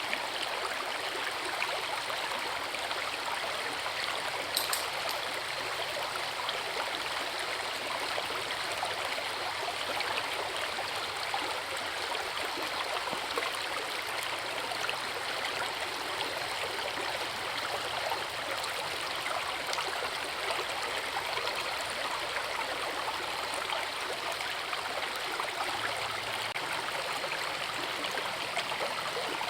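River water rushing and splashing over rocks at a small waterfall: a steady, even rush with no change. A single short click about four and a half seconds in.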